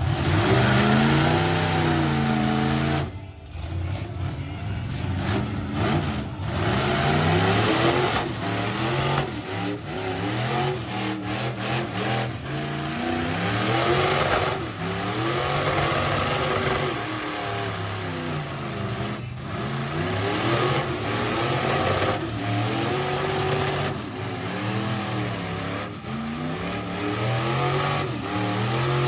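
Big-block V8 mud truck engine revving hard under load in a truck pull, its pitch repeatedly climbing and falling, with a brief dip about three seconds in.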